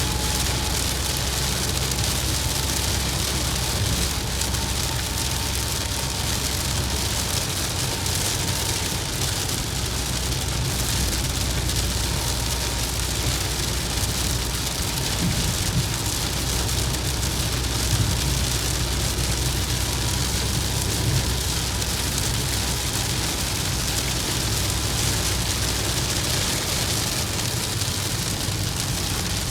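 Steady rain hitting a moving vehicle, over a continuous low rumble of engine and road noise.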